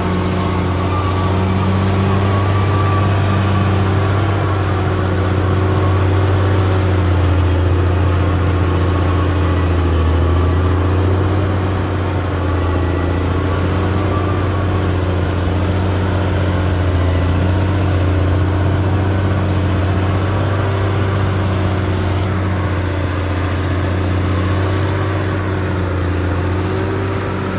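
Caterpillar D6R bulldozer's diesel engine running steadily, its pitch wavering slightly as it works.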